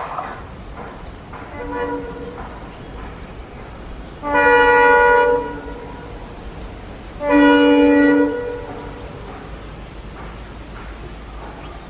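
Diesel locomotive horn: a short faint blast, then two loud one-second blasts about three seconds apart, each a chord of several tones, while the rumble of the passing train fades away.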